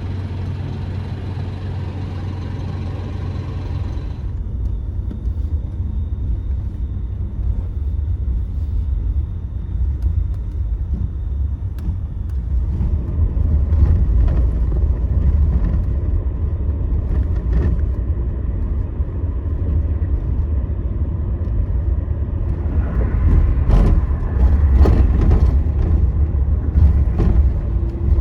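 Scania Astromega double-decker coach under way, heard from inside the cabin: a steady low engine and road rumble that grows gradually louder. A hiss cuts off about four seconds in, and scattered knocks and rattles come in the second half.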